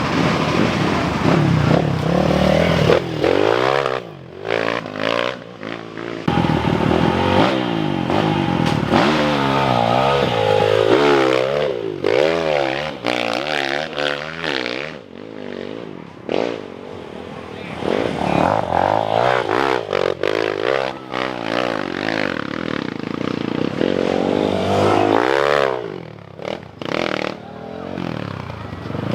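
Motocross motorcycles passing one after another, engines revving hard, the pitch of each rising and falling as it goes by, several often overlapping.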